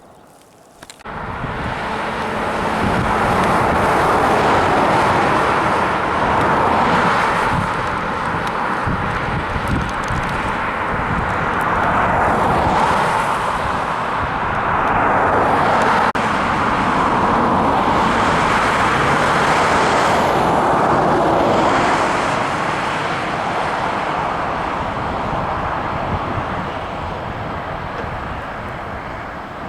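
A train passing over the level crossing: a loud, steady rumble and rush of wheels on rail. It starts abruptly about a second in and swells and eases in waves.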